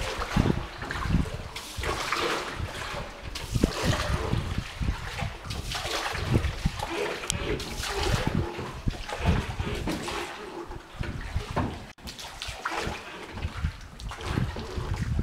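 Water splashing and trickling around a small rowed boat, coming in irregular bursts.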